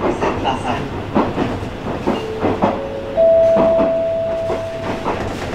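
Alpico Kamikochi Line 20100 series electric train running, heard inside the passenger car: a steady rumble with repeated wheel clicks over the rail joints. About two seconds in a steady tone appears, steps up in pitch twice, and rings loudest for about two seconds before stopping shortly before the end.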